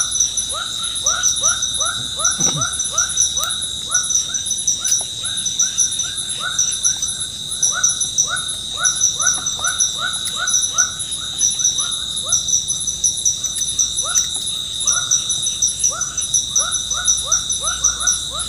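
Forest insect chorus: a steady high drone with rapid pulsing chirps above it. Running through it, an animal repeats short falling notes about twice a second.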